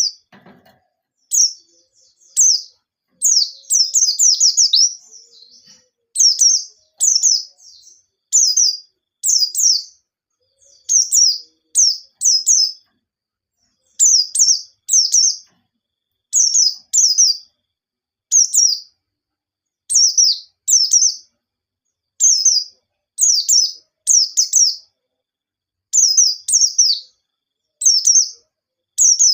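Pleci (white-eye) singing: short, high, quick chirping phrases, each about half a second long, repeated roughly once a second with brief silences between.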